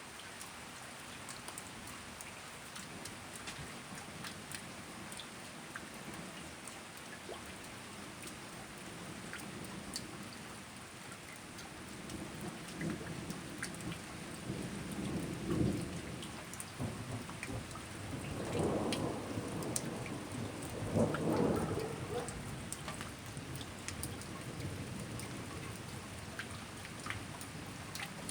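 Steady rain with scattered drops ticking, and a long peal of thunder rolling in about halfway through, swelling several times before dying back to the rain.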